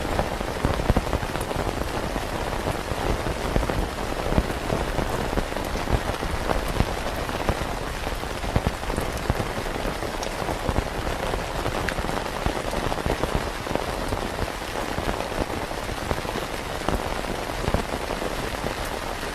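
Steady rain falling on a tent: a dense patter of drops with scattered louder taps.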